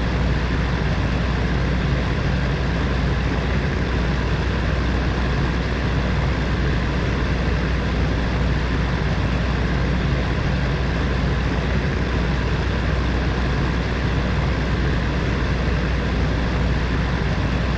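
Heater fan running steadily: an even rush of air over a low hum.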